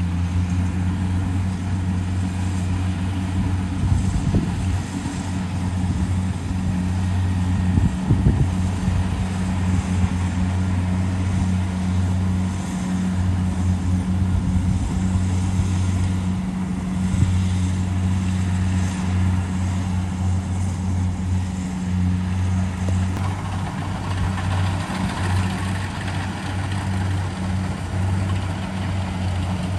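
Diesel engine of a Kubota DC70 Pro rice combine harvester running steadily with a constant low hum.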